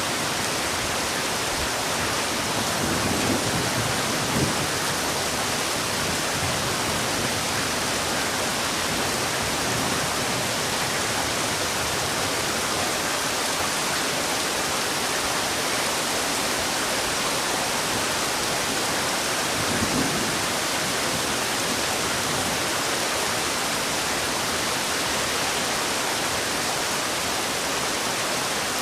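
Heavy rain falling in a steady, dense hiss, with a few brief low thuds about three to four seconds in and again near twenty seconds.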